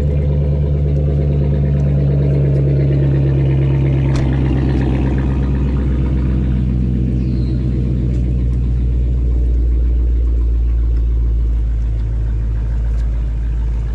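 Chrysler 300 engine idling steadily during warm-up after a cold start. About halfway through, the idle settles slightly lower.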